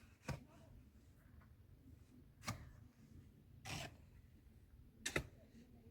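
Faint room tone broken by three short, sharp knocks and a brief rustle a little past the middle.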